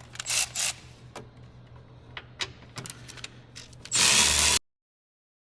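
Hand ratchet clicking in short spells on 10 mm bolts, with scattered metallic clicks and a louder noisy burst about four seconds in. The sound then cuts off to dead silence.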